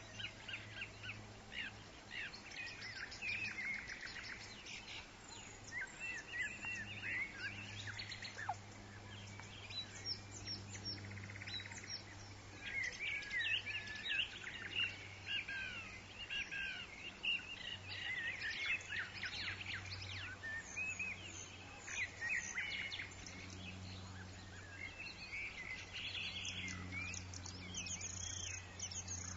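Forest birds chirping and calling, many short quick notes and sweeping whistles overlapping without a break, over a steady low hum.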